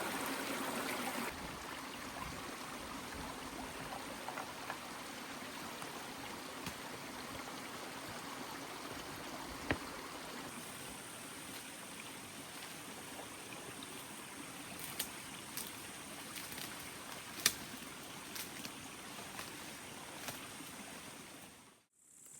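Heavy rain falling steadily, an even rushing hiss with a few sharp taps of drops among it, fading out near the end.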